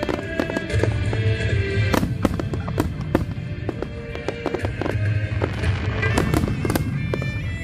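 Fireworks display: rapid sharp bangs and crackles from bursting aerial shells over a deep low rumble, with music playing along.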